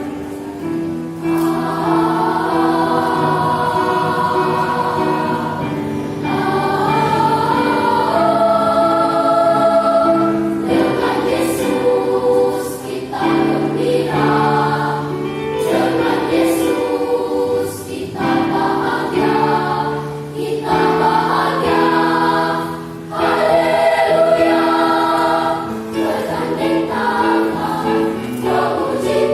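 Children's and youth church choir singing in several parts, holding notes and moving through phrases with brief breaths between them.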